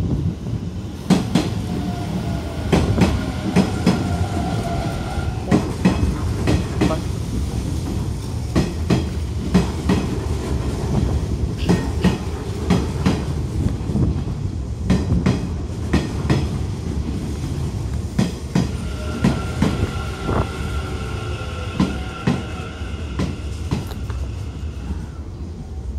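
Hanshin electric commuter train running along the station platform: a low rumble with many sharp clicks of the wheels over rail joints. A high whine sounds twice, each time for a few seconds.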